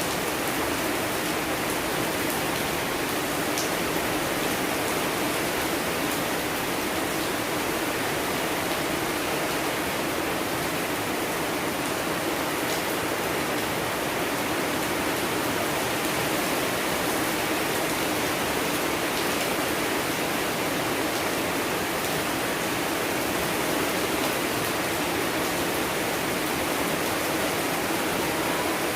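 Steady, even rain with a few faint drop ticks.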